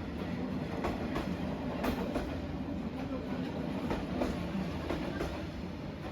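Passenger train rolling past at close range: a steady low rumble with irregular clacks as the wheels cross rail joints.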